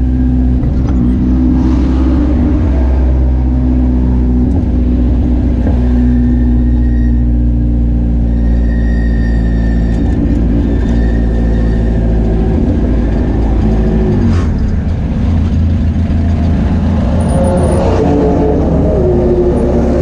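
Spec Miata four-cylinder engine heard from right above its exhaust, running steadily on track, its note shifting about 14 seconds in and rising again near the end. The engine has an intermittent misfire that the owner could not cure and is down on power.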